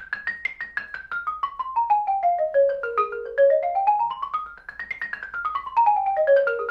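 Xylophone played with mallets: a quick, even stream of notes in A-flat major running down and back up in pitch across about two octaves, twice over, as a tempo exercise.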